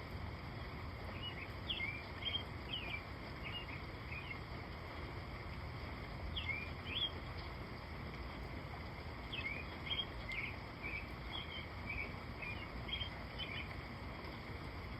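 Steady rain hiss with birds chirping over it in short bursts of quick rising notes: a cluster a couple of seconds in, another about halfway, and a longer run near the end.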